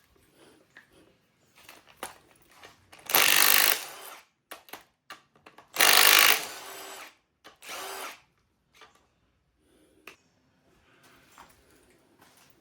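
Handheld power tool run in two short bursts of about a second each, then a shorter, weaker third burst, with light clinks of metal parts between them.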